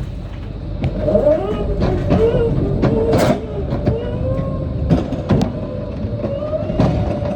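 Forklift running as it moves, its motor whine rising and falling over a low rumble, with a few sharp clunks.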